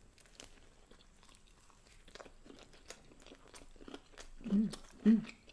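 A person biting into and chewing a soft-bread Domino's Mediterranean veggie sandwich close to the microphone: faint wet clicks and crackles of the mouth. Near the end come rhythmic hummed 'mm' sounds while chewing, about two a second.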